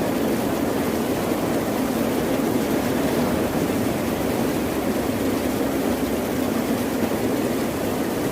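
Ocean surf making a steady, unbroken roar, with no separate wave crashes standing out.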